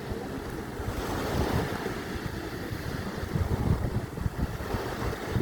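Waves washing onto a sandy shore, with wind buffeting the microphone in uneven gusts.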